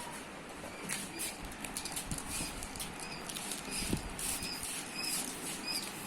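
Parrot chick giving short, high squeaks that repeat about every half second from a couple of seconds in.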